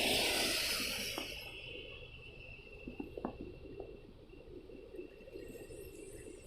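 Car tyres hissing through water on a wet road as a vehicle passes, the hiss fading over the first second and a half. Then a low traffic rumble with a few faint clicks, and another hiss building near the end as the next vehicle comes.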